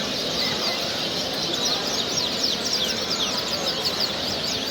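Many small caged songbirds chirping and singing at once, a dense stream of short high chirps, busiest in the middle, over a low murmur of voices.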